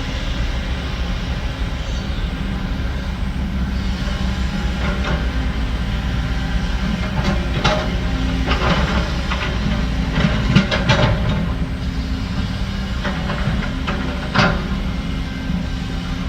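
Heavy construction machinery's diesel engine running steadily, with bursts of knocks and scraping from the machine at work; the loudest knock comes about ten and a half seconds in, and another sharp one near fourteen and a half seconds.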